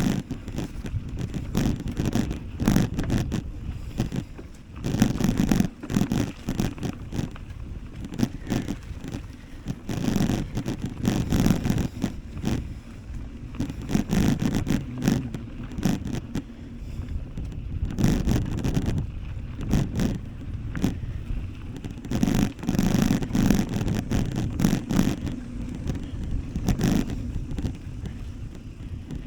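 Ride noise from a bicycle on a rough path: irregular tyre rumble with frequent rattling clicks and knocks.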